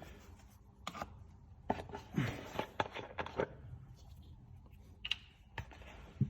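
Light clicks and knocks of objects being handled and set down, with a quick cluster of them in the middle and a few single knocks near the end.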